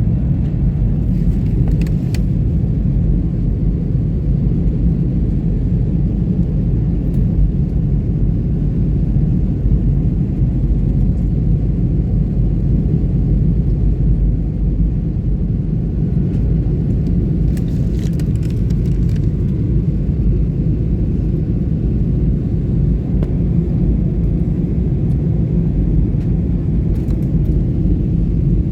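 Ship's engine-room machinery running with a steady, loud low rumble. A few brief clicks or rattles come through over it, about a second in and again around eighteen seconds.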